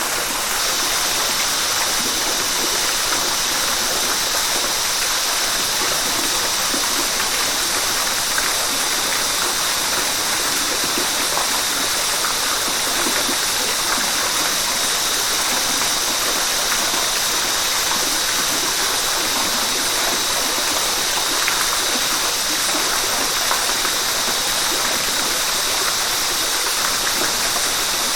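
River water rushing steadily over rocks, a constant even hiss that brightens slightly just after the start.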